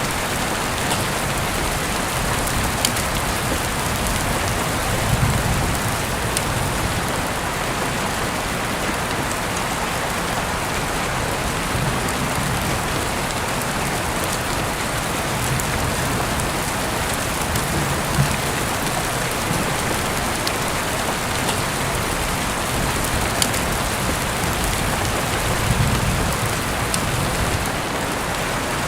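Steady rain, an even hiss, with a few sharp clicks scattered through it and a few brief low swells.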